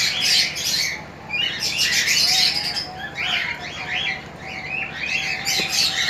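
Cage birds chirping and twittering, a dense run of short high chirps overlapping with one another, with a faint steady tone underneath from about halfway.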